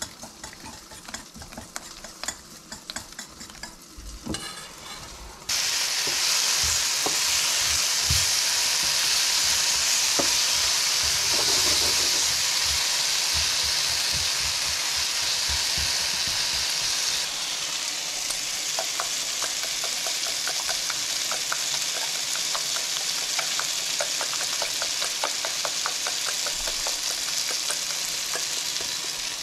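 A wire whisk beats eggs in a stainless steel bowl with quick clicking. About five seconds in, loud sizzling of zucchini pieces frying in a pan suddenly takes over, with a spatula stirring and scraping them. Past the middle the sizzle eases a little and the stirring strokes click steadily.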